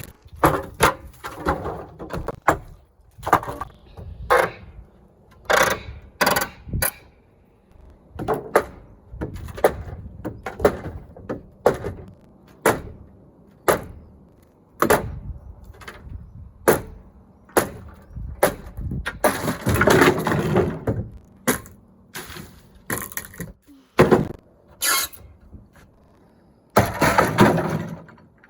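Old roof being dismantled: irregular sharp knocks and cracks of breaking roofing material. There are longer stretches of crashing and clattering about two-thirds of the way in and again near the end.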